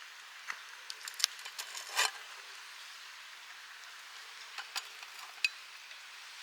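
Steady patter of rain, with a scatter of sharp light clicks and knocks and a brief scrape about two seconds in.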